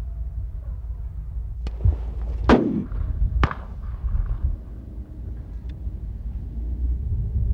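Shotgun shots fired at wood pigeons: three sharp cracks within about two seconds, the middle one ringing out briefly.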